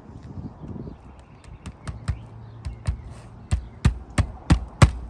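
Hammer striking a roofing nail into asphalt shingles. A few light taps come first, then a steady run of sharp blows about three a second, starting about three and a half seconds in and growing louder.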